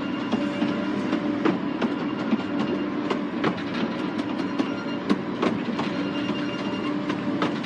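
Miniature railway train running along the track: a steady mechanical hum with frequent sharp clicks and knocks from the wheels over the rails.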